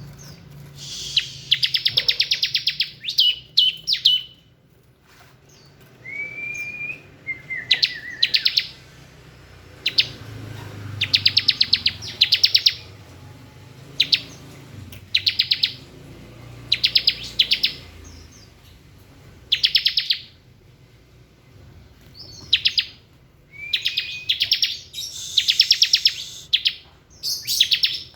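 Ciblek (bar-winged prinia) singing its 'ngebren' song: repeated fast, rattling trills of a second or two each, with a few short whistled notes in between.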